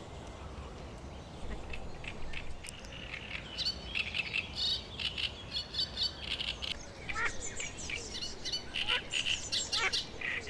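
Outdoor chorus of several songbirds: many short chirps and quick down-slurred notes overlapping, sparse at first and busier from a few seconds in.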